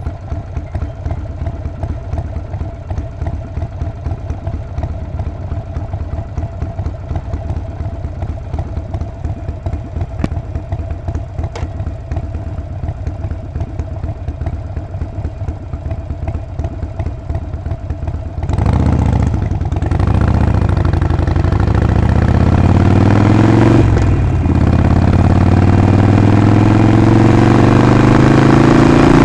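Harley-Davidson Sportster 48's 1200 cc air-cooled V-twin idling with a steady, even pulse. About two-thirds of the way in it opens up and gets much louder as the bike pulls away, the engine pitch rising through the gears with a short dip at a shift.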